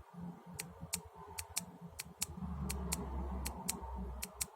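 About a dozen irregular clicks from the buttons of a Baofeng BF-UVT2 handheld radio being pressed, with no key beep or audio from the radio, the fault its owner is chasing. A low rumble joins from about two and a half seconds in and stops shortly before the end.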